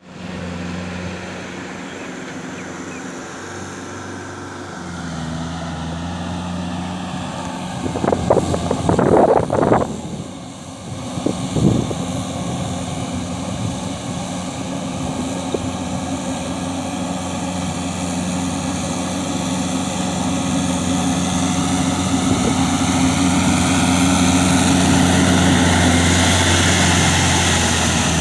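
Tractor engine running steadily in a paddy field, slowly growing louder over the second half. A burst of loud rough noise breaks in about eight to ten seconds in, and once more briefly near twelve seconds.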